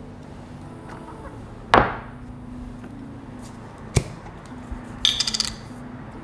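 Cooking handling sounds: a heavy knock, a sharp click a couple of seconds later, then a quick rattle of small ringing clinks, like utensils or dishes being handled.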